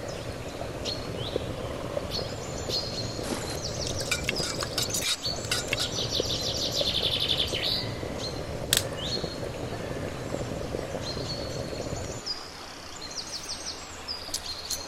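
Small birds chirping, with a fast trill in the middle, over a steady background noise that drops away about twelve seconds in; scattered sharp clicks.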